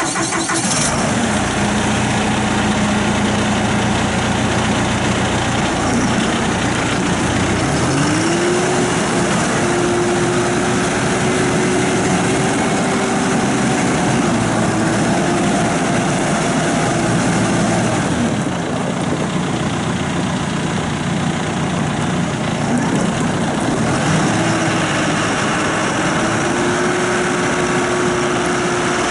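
2017 John Deere 5115ML tractor's diesel engine running. It idles, revs up and holds the higher speed, drops back to idle, then revs up and holds again.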